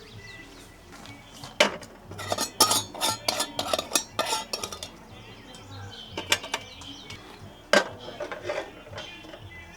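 Cookware and utensils clinking and knocking: a string of irregular sharp clicks, a few louder knocks among them.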